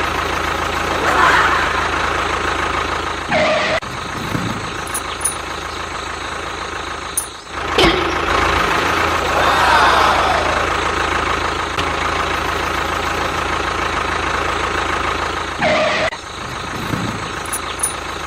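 An engine running steadily like an idling tractor, broken by a few short gaps.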